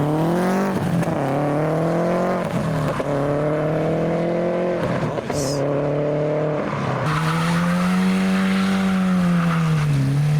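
Car engine accelerating away through several gears. Its pitch climbs and then drops at each shift, about a second in and again near three, five and seven seconds. It finishes in a longer rise and fall near the end.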